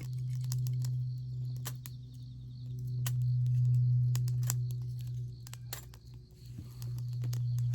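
Campfire crackling, with irregular sharp pops, over a steady low hum.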